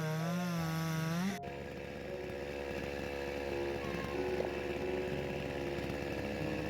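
A small engine running with its pitch wavering up and down, then rising sharply and cutting off abruptly about a second and a half in; a quieter, lower hum follows.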